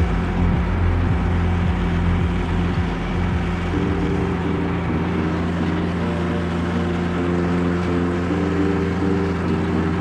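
Toro Wheel Horse 523Dxi diesel garden tractor running steadily under load while driving its single-stage snow thrower.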